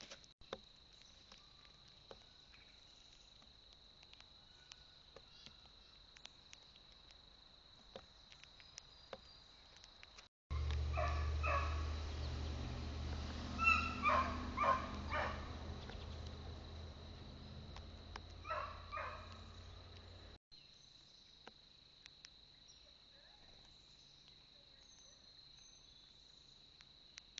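Several short harsh animal calls in three small groups over a steady low rumble, in a louder middle stretch; before and after it, a faint steady high tone with scattered light ticks.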